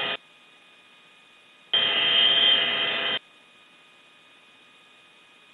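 A burst of radio static about one and a half seconds long, starting and stopping abruptly: a keyed radio transmission with no words. Around it is a faint steady hiss with a thin continuous tone.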